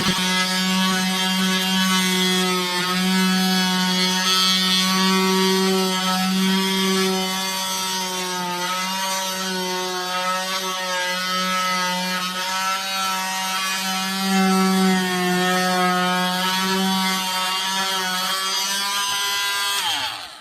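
KIMO 20V cordless oscillating multi-tool running steadily for about twenty seconds with a loud buzz whose pitch wavers slightly, then stopping at the end.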